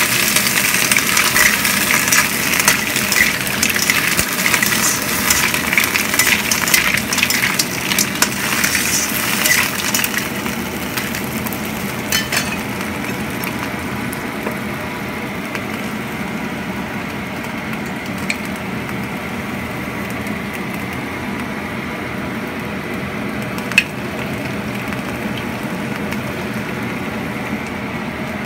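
Mussels cooking in a wok on the stove, sizzling with lots of crackle for the first ten seconds or so, then settling to a steadier, quieter hiss. One sharp click about three-quarters of the way through.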